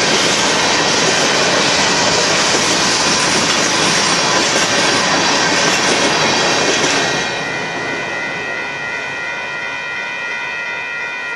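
Loaded hopper cars of a Union Pacific freight train rolling past with steady wheel and rail noise. About seven seconds in, the last car clears and the noise drops, leaving a fainter rumble and steady high-pitched ringing tones.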